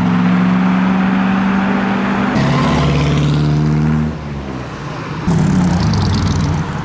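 Car engines running at low revs as vehicles drive slowly past one after another. The engine note changes abruptly about two and a half seconds in, dies down around four seconds, and a different engine comes in just past five seconds.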